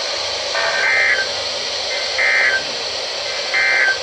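NOAA Weather Radio SAME alert header: three short bursts of high digital data tones about a second apart, the header sent three times to trigger receivers for a new alert. They play over a steady hiss of static from poor reception.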